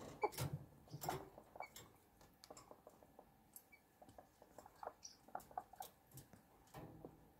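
Faint, irregular taps and scratchy clicks from small chickens moving about and pecking in their enclosure, a little busier in the first second or so.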